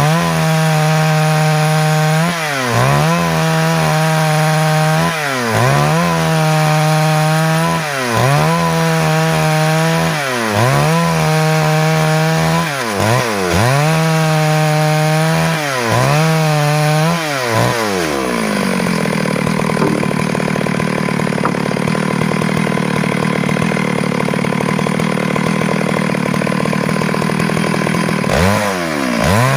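Stihl MS 382 two-stroke chainsaw running at high revs. For the first eighteen seconds its pitch drops sharply and climbs back about every two seconds, then for about ten seconds it gives a rougher, steadier sound before one more dip and recovery near the end. This is the sound of the saw ripping lumber out of a log.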